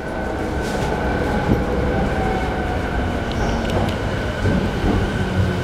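Interior running noise of a JR E217 series commuter train coming into a station: a steady rumble of wheels on rail with a few light clicks.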